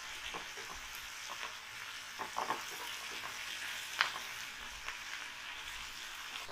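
Sliced onions, green chillies, garlic and ginger sizzling steadily in hot mustard oil in a kadhai as they are browned, stirred with a spatula. A few short clicks of the spatula against the pan, the sharpest about four seconds in.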